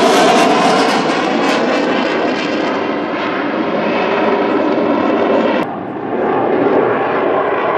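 Eurofighter Typhoon's twin EJ200 turbofan jet engines, a loud, steady jet noise from the fighter in flight. About two-thirds of the way through, the high hiss drops away suddenly, leaving a lower rumble.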